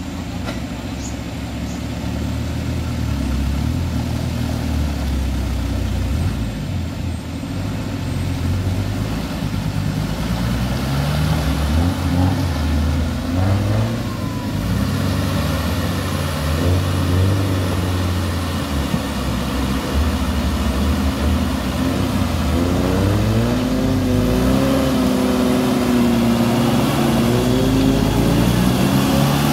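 Engines of off-road 4x4s labouring up a deep mud track, revving in waves with the pitch rising and falling, growing louder in the second half.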